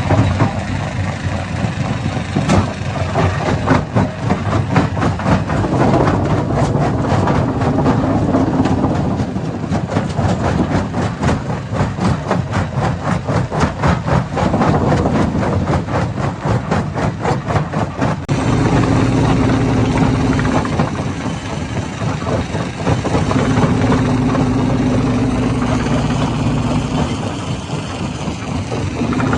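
Hammer-type stone crusher running with rapid, rhythmic knocking for most of the first two-thirds. It then settles to a steadier mechanical hum.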